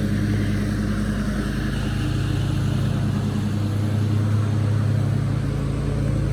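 An engine or motor running steadily with an even hum.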